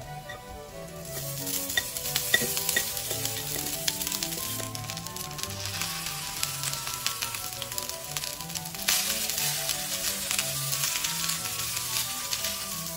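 Rice and boiled white peas sizzling in hot oil in a wok as they are tipped in and stirred with a spatula. The sizzle starts about a second in and grows louder near nine seconds.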